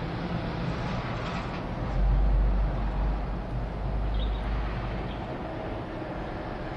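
Aircraft flying overhead: a steady, noisy engine rumble with a deep low component that swells about two seconds in, then eases off.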